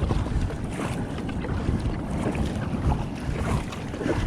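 Wind buffeting the microphone in an uneven low rumble, over water splashing and sloshing around a kayak out in the surf.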